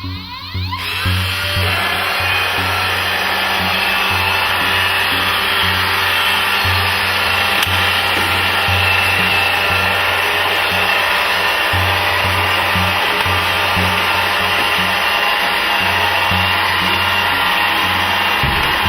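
Vileda MR-488A robot vacuum cleaner running, its suction fan spinning up in the first second and then holding a steady, loud whirring hum with a faint whine.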